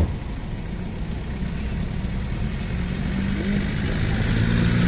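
Motor vehicle engine running in street traffic, growing louder over the second half as it comes closer.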